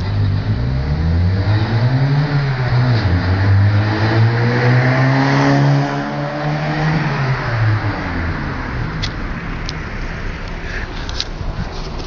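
2001 Seat Ibiza with a sport exhaust accelerating hard past, the engine note rising in pitch; the pitch dips briefly about two and a half seconds in, the car is loudest around the middle, then the sound falls off and fades as it moves away.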